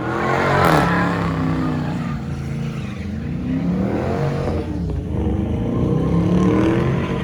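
Car engine revving hard, its pitch rising and falling several times.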